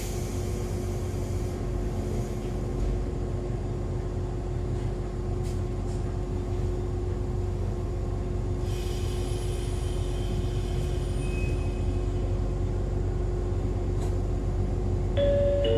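Interior sound of an Echizen Railway MC6101 electric railcar: a steady hum over a low rumble, with short bouts of hiss near the start and about nine seconds in.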